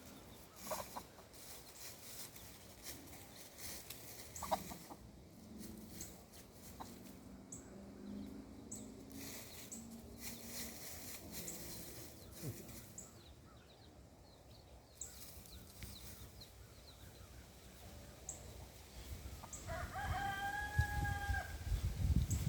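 Domestic chickens clucking quietly, with scattered short clicks. About twenty seconds in comes one longer, drawn-out call lasting about a second and a half.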